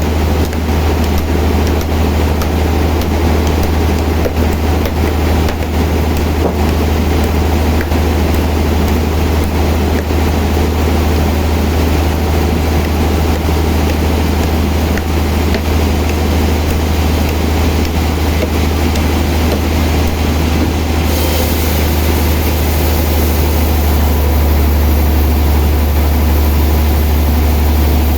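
Sawmill machinery running with a steady deep hum. About three-quarters of the way through a high hiss joins, and the sound grows slightly louder.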